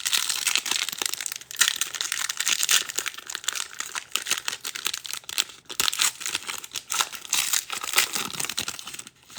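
A football trading-card pack wrapper being torn open and handled, crinkling steadily for several seconds with brief pauses, as a Rookies and Stars pack is opened.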